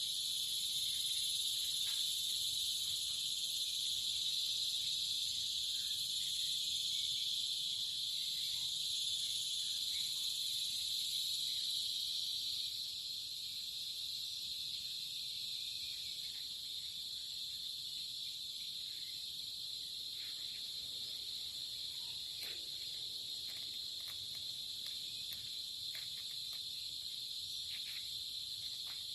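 A chorus of crickets or similar insects chirring steadily in a high-pitched, continuous drone, which eases slightly in level about halfway through. A few faint ticks come through in the second half.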